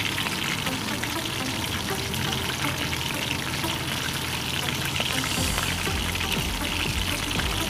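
Chicken pieces frying in hot oil in a wok: a steady crackling sizzle, with music underneath.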